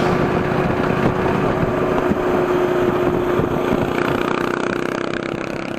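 Motorcycle engine running steadily, growing quieter near the end.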